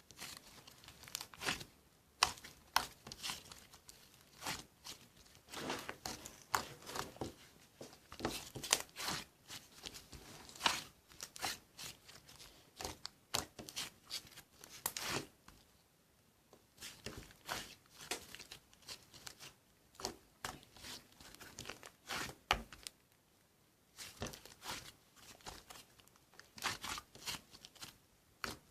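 Crackly tearing and crinkling noises in short, irregular clusters, with brief lulls about halfway through and again a little later.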